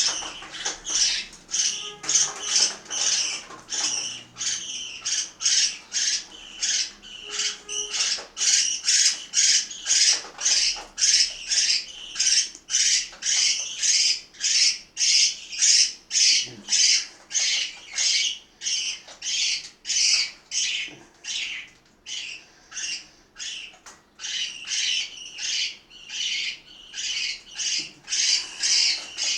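A group of parakeets calling without pause, a fast series of short, harsh squawks, about two a second.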